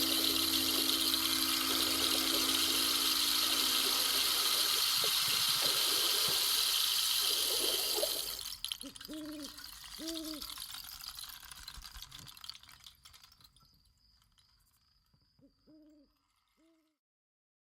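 A loud, steady rushing noise like running water that stops abruptly about eight seconds in. It is followed by owl-like hoots, two short ones and then, after a pause, three more, fading out at the end.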